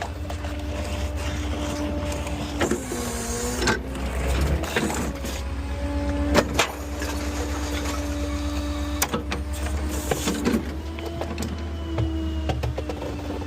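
Small rear-loader garbage truck's engine and hydraulics running under load, a steady whine whose pitch sags twice as the work loads it, over a low rumble. A few sharp knocks cut through it, as a full trash can is handled at the hopper.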